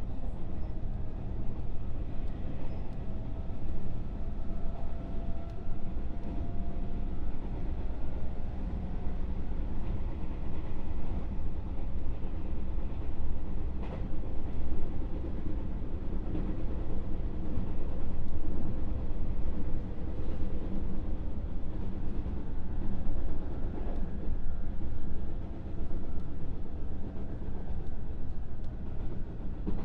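Running noise heard inside a JR West 221 series electric motor car: a steady rumble of wheels on rail with a faint whine that drifts slowly in pitch, and an occasional sharp click.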